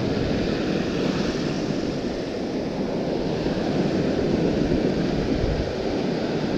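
Rough surf washing in, with wind blowing across the microphone: a steady rushing noise without a break.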